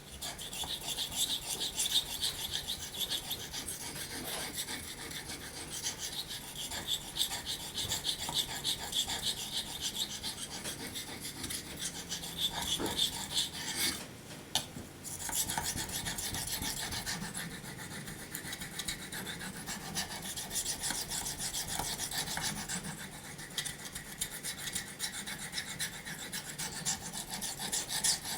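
Knife blade drawn back and forth in straight strokes across a wet sharpening waterstone: a continuous gritty scraping, with a brief pause about halfway through.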